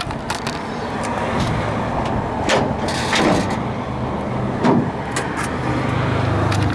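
1966 Dodge Coronet's rebuilt 318 V8 engine idling steadily, growing louder toward the end, with a few sharp knocks about two and a half, three and nearly five seconds in.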